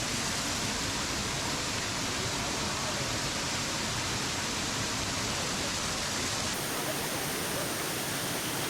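Steady rushing roar of a large waterfall cascading down over steps of rock, running full after rain. Its highest hiss changes abruptly about six and a half seconds in.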